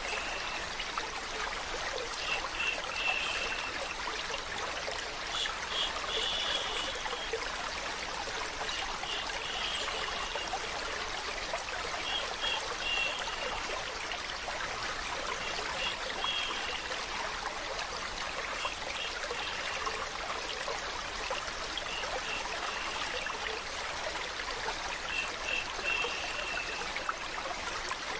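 Flowing stream water trickling steadily, an even rushing hiss. Short high-pitched chirp-like sounds recur every two to three seconds.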